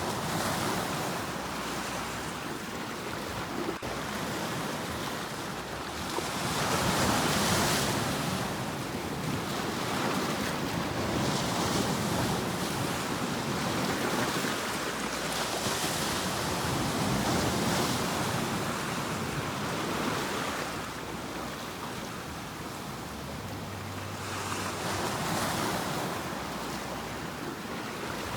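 Ocean waves breaking on the shore: a steady rushing surf that swells louder and eases off every few seconds as each wave comes in.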